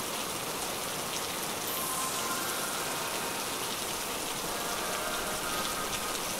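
Steady rain, an even hiss without a beat or voice.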